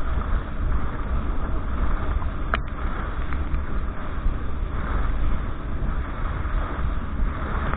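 Steady rush of wind buffeting the microphone, with the noise of a motorboat and water underneath, as the banana boat is towed at speed.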